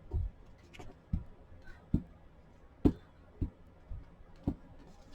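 Light taps on a tabletop during paper crafting, seven short knocks spaced unevenly about half a second to a second apart.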